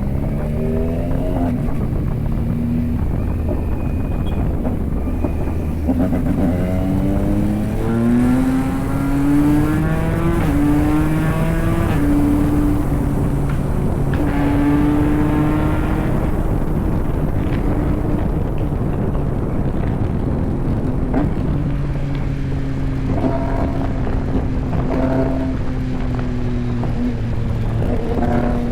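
Yamaha MT-09's three-cylinder engine under way, its pitch rising as it pulls through the gears, then holding steady at a cruise before rising again near the end, over a steady rush of wind.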